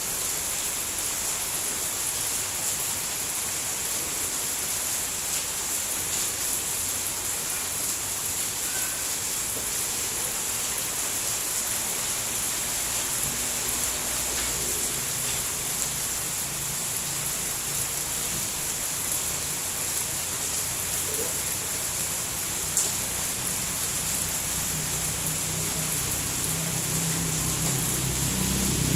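Steady rain falling, an even hiss, with a low rumble that comes in about halfway through and grows louder toward the end.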